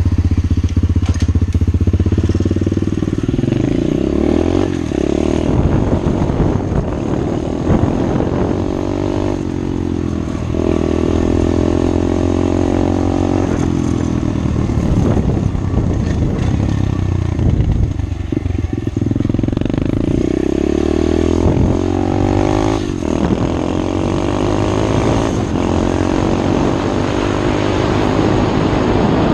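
SSR 125 pit bike's small single-cylinder four-stroke engine being ridden hard, its pitch climbing and dropping again and again as it accelerates through the gears, with wind rushing past.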